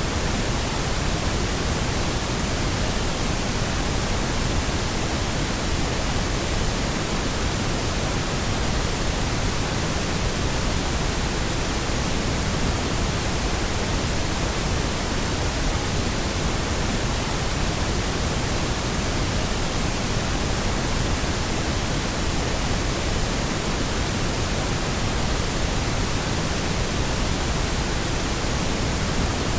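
Steady pink noise: an even hiss spread across all pitches, unchanging throughout.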